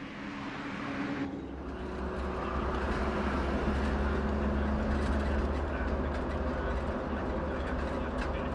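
A steady, low engine rumble like a vehicle running, growing louder over the first few seconds and then holding even.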